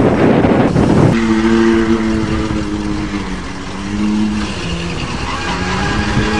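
A vehicle engine running under power, with a loud rush of wind and engine noise for about the first second. It then cuts abruptly to a steady engine note that wavers slightly in pitch.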